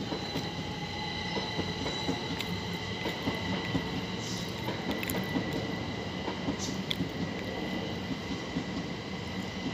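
A train moving along the rails with a low rumble and a steady high-pitched whine held almost throughout, with a few scattered clicks.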